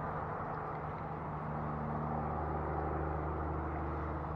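Steady low hum of a boat motor running, with an even hiss over it.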